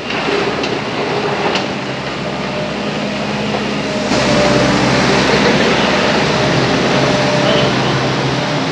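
Heavy machinery running steadily as a loud mechanical rumble with a low hum, growing louder about four seconds in.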